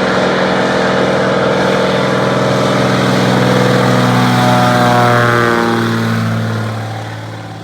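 Propeller-driven floatplane passing close. Its engine drone builds to a peak about five seconds in, then drops in pitch and fades as it moves away.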